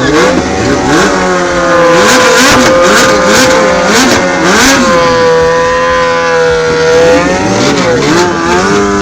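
Sport motorcycle engines revving hard at a drag strip. One engine holds a steady high rpm while another is blipped up and down repeatedly, as at the start line before a launch. Near the end the held engine note drops lower.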